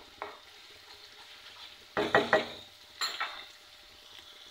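Ginger-garlic paste sizzling in hot oil in a non-stick karahi as it fries to a light golden colour. A spatula scrapes and stirs it in a few quick strokes just after the start, and more loudly about two and three seconds in.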